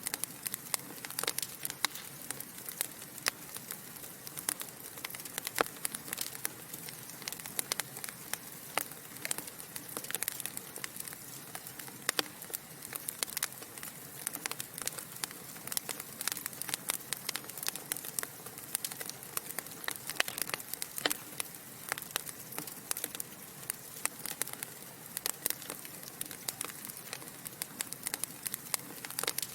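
Wood fire burning in a fireplace, logs crackling and popping in irregular sharp snaps over a steady soft hiss.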